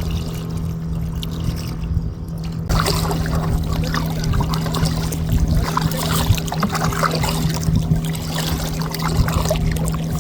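Water trickling and splashing around a kayak, a dense, irregular patter of small drips and splashes that gets busier about three seconds in, over a steady low hum.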